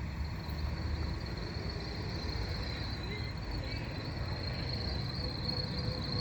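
Crickets chirring steadily in one high, even drone, over a low rumble.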